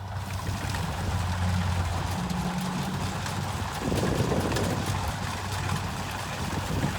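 Kubota rice combine harvester's diesel engine running steadily with a low hum under dense mechanical noise; a brief swell of noise about four seconds in.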